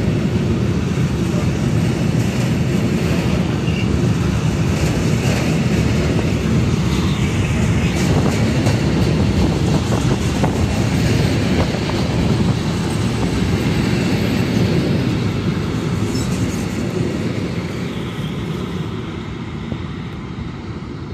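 Freight train of covered wagons rolling past at close range, a steady heavy rumble of the wagons' wheels with scattered sharp clicks from the rail joints. It fades over the last few seconds as the end of the train moves away.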